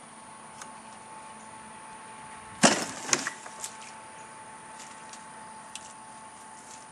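A sudden clatter of two loud knocks about half a second apart, then a few lighter knocks, from the bent garden wagon being handled.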